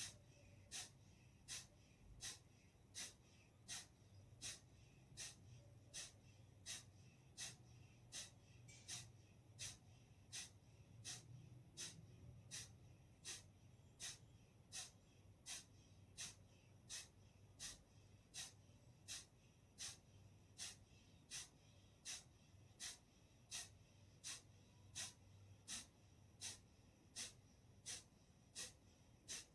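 Kapalbhati breathing: short, forceful exhalations through the nose in an even rhythm, about three every two seconds, over a faint low hum.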